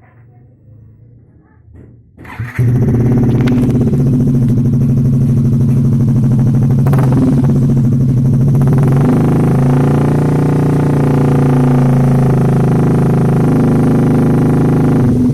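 Yamaha X-Ride scooter's single-cylinder four-stroke engine, fitted with a Kawahara GT Pro stainless-steel aftermarket exhaust, starting abruptly about two and a half seconds in and then running loud and steady at idle, with a slight change in pitch about nine seconds in.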